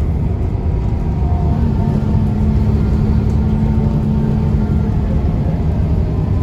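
Scania L94UB bus's DSC9 9-litre six-cylinder diesel engine running under way, a steady low drone. A steady hum joins it about a second and a half in and drops away about five seconds in.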